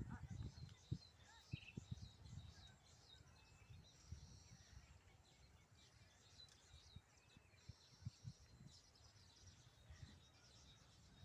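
Faint chirping and chattering of baya weaver birds, with a couple of buzzy trills, over low rumbling and a few low thumps in the first two seconds and again around eight seconds.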